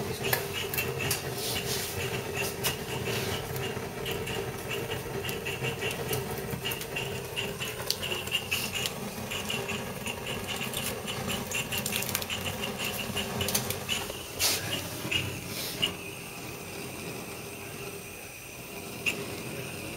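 A gas soldering torch hissing steadily while solder is applied to a leaking water pipe for its repair, with small clicks and taps of the work; the hiss drops a little about sixteen seconds in.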